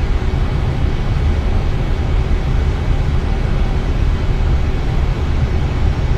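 Steady cockpit noise of an Airbus A320 on final approach with flaps extended: the rush of air over the airframe and the engines blend into an even rumble, heaviest in the low end, with a faint thin tone above it.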